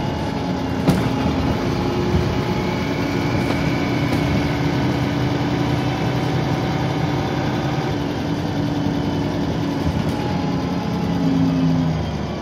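Interior of a Dennis Trident 2 double-decker bus on the move: the diesel engine runs steadily with a high turbo whine, the whine this bus is known for. A sharp knock comes about a second in. Near the end the engine note swells, then falls away.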